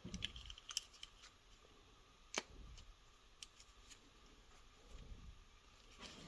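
Faint clicks and taps of small carburetor parts being handled and fitted during reassembly, with one sharper click about two and a half seconds in.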